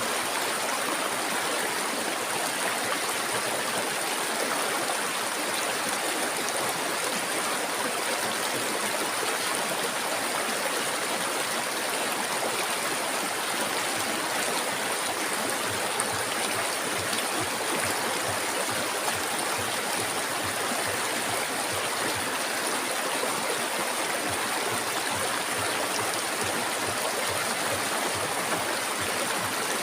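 Flowing river water: a steady, even rushing that does not change.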